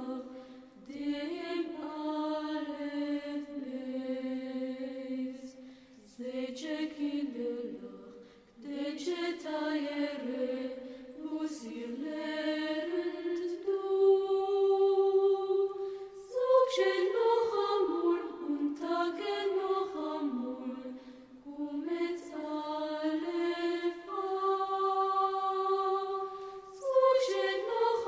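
Slow, chant-like singing: long held notes in phrases a few seconds long, each separated by a short break.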